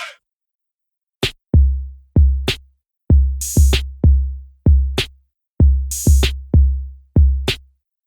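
Electronic background music with a drum-machine beat: deep kick-drum hits about twice a second with crisp snare and cymbal hits between them, starting about a second in after a short silence.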